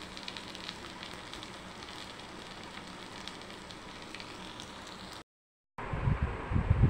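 Potato curry sizzling gently in a non-stick kadai, a steady faint hiss with scattered small crackles. It cuts off about five seconds in, and low thumps and rumble on the microphone follow near the end.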